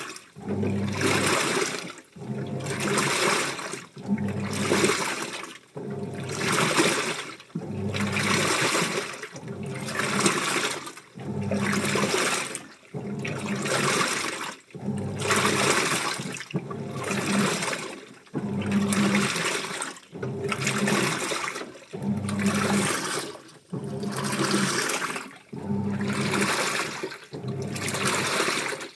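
Washing machine mid-wash: water sloshing through the clothes in regular strokes about every two seconds, each stroke carrying a low motor hum and separated by a brief pause as the motion reverses.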